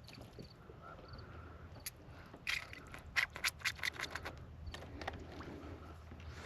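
A quick, irregular run of light clicks and scrapes lasting about two seconds, starting about two and a half seconds in, over faint background noise.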